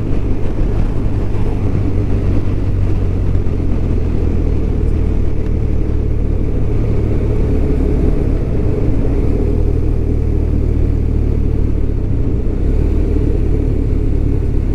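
BMW R1200RT's boxer-twin engine running steadily while riding, with a low, even drone.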